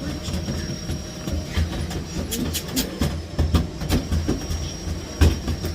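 Miele Blizzard CX1 cylinder vacuum cleaner running with a steady high whine, while its floor head knocks and rattles irregularly as it is pushed about.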